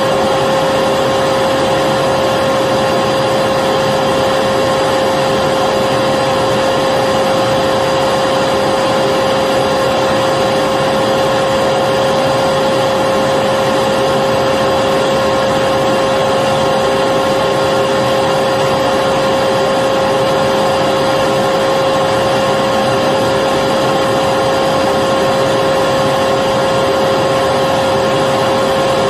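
Electric vacuum cleaner running steadily: an even rushing noise with a constant motor whine, unchanging throughout.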